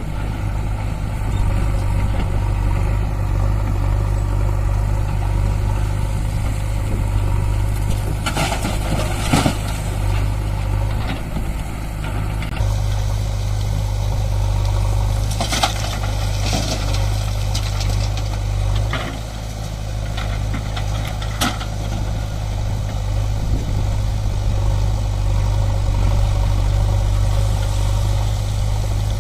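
Heavy diesel engine running steadily, with a few short knocks or clanks over it, about a third of the way in and again in the middle.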